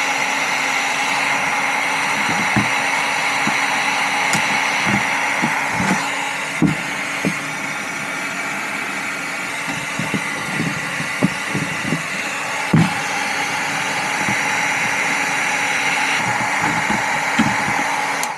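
Electric heat gun running steadily, its fan blowing hot air to soften and flatten the edge of a plastic bin, with scattered light knocks from handling. It cuts off at the very end.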